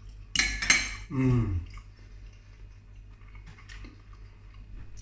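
A man chewing a mouthful of beef burrito bowl. Two sharp clicks come less than a second in, then a short falling "mmm", then soft chewing sounds.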